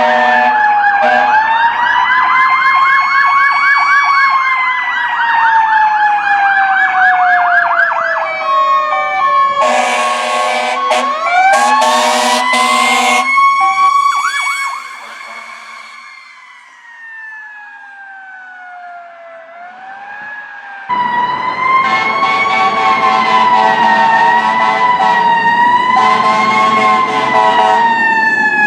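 Fire apparatus sirens wailing up and down, with several air horn blasts about ten to thirteen seconds in. One siren then winds down slowly and fades, and about two-thirds of the way through another wailing siren cuts in suddenly at full loudness.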